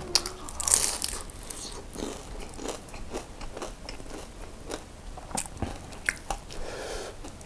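Close-miked chewing and crunching of a meat-filled martabak: a crisp crunchy bite about a second in, then scattered short crackles and mouth clicks as it is chewed.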